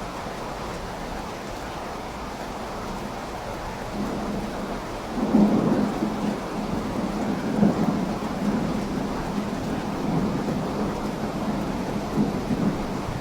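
Steady rain with rolling thunder: a low rumble comes in about four seconds in, swells sharply a second later and keeps rumbling with several louder peaks to the end.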